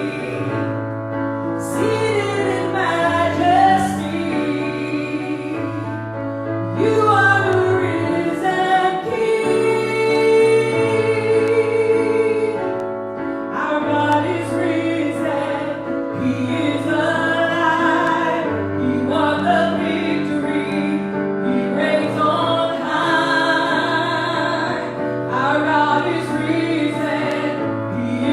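Church worship song: voices singing over an accompanying band, with held bass notes that change every couple of seconds.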